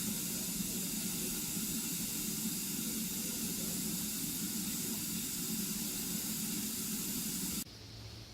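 Steady hiss of escaping steam from an Ivatt Class 2MT steam locomotive, cutting off suddenly near the end.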